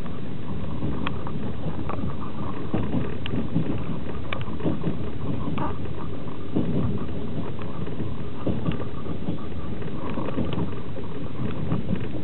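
Passenger train coach running along the track: a steady rumble of wheels on rail, with scattered sharp clicks and knocks, heard from inside an open-berth sleeper coach.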